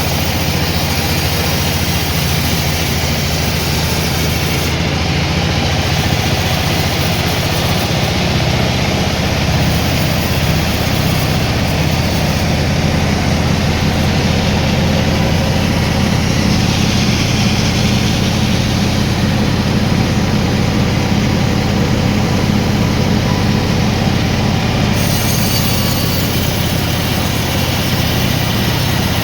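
Sawmill machinery running steadily with a loud low hum, its saw cutting through a log.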